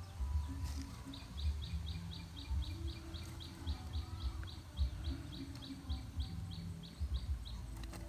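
A bird calling in a steady run of short high chirps, about four a second, that starts about a second in and stops near the end. Irregular low thuds and rumble sound underneath.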